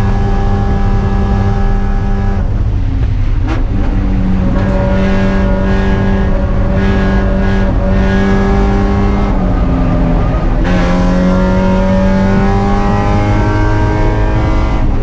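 Spec Miata's four-cylinder engine running hard at race pace. It lifts off about two and a half seconds in with a brief rev spike, then holds steady on the throttle. It lifts again near the ten-second mark, then pulls with rising pitch toward the end.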